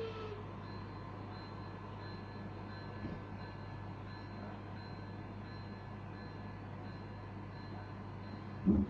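Model train passing on a layout: a horn blast cuts off just after the start, then a steady low hum of the running locomotive, with one short thump near the end.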